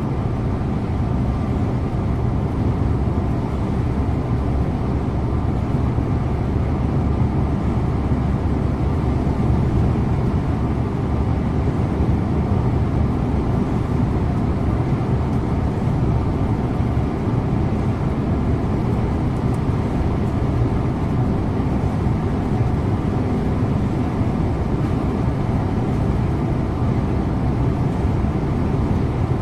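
Scania InterLink bus driving at a steady speed, heard from the driver's seat: a constant low engine drone with tyre and road noise, unchanging throughout.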